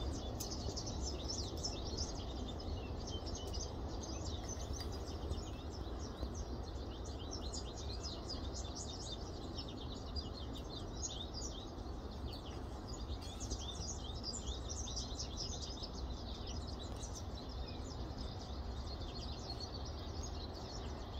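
Small songbirds chirping and twittering continuously, many quick high chirps overlapping, over a steady low background rumble.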